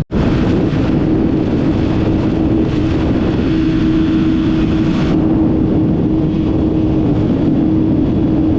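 Motorcycle riding at a steady speed: the engine holds one even note under heavy wind noise on the microphone.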